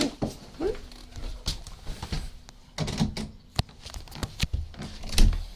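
Scattered knocks and clicks with a couple of short whines, and a heavy thump near the end.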